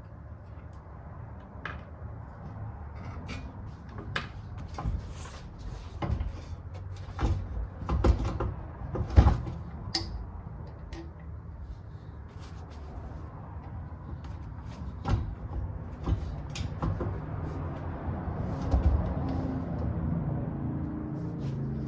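Irregular clicks, knocks and clatter of hands and tools working on a bicycle's rear wheel and brake, over a steady low rumble of traffic.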